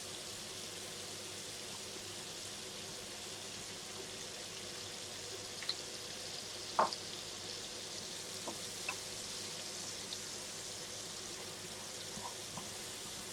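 Onions, garlic and chopped ginger sizzling steadily in butter and oil in a frying pan over medium heat. A few sharp clicks sound over it, the loudest a little past halfway.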